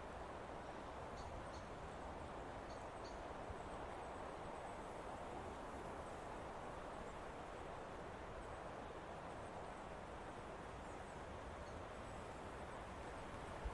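Steady forest ambience: wind through teak trees making an even hiss, with a few faint, short, high bird chirps scattered through it.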